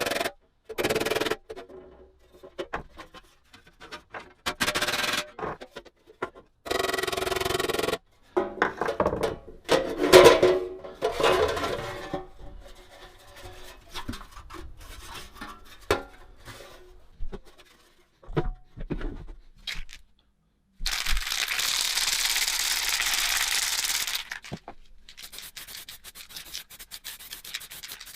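A series of short, abruptly cut bursts of rubbing and scraping, with a steady stretch of sanding noise lasting about three seconds around the two-thirds mark.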